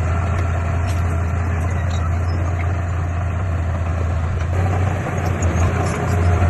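Heavy diesel engine of earthmoving equipment running with a steady low rumble that starts to pulse unevenly about five seconds in.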